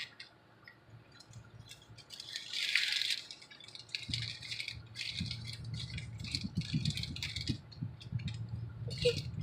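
Rustling and rattling as a child opens a backpack and rummages inside it: an irregular string of small clicks and crinkles, loudest a few seconds in. A low hum comes in about four seconds in.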